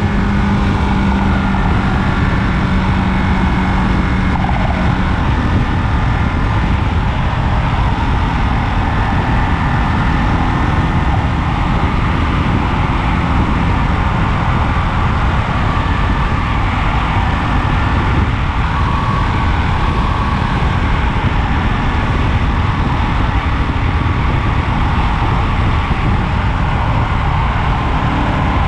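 Ducati Monster 937's V-twin engine running as the motorcycle rides along, under a loud, steady rush of wind noise. A humming tone drops away about five seconds in.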